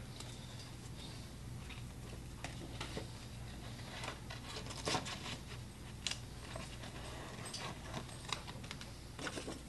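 Scissors cutting paper: scattered faint snips and paper rustles, several seconds apart, over a steady low hum.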